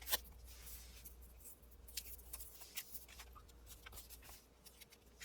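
Faint handling sounds of paper and lace on a craft table: scattered light taps, clicks and rustles.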